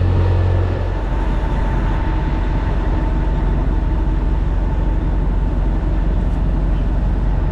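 Steady low rumble of a diesel engine running during refuelling at a truck fuel pump; the sound shifts slightly about a second in.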